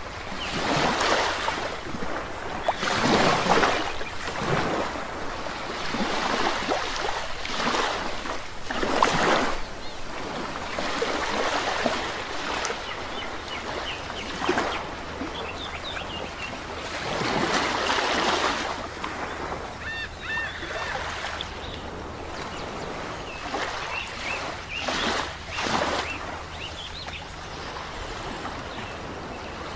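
Sea waves breaking and washing up on a beach in repeated swells of surf. A few short bird calls sound in the second half.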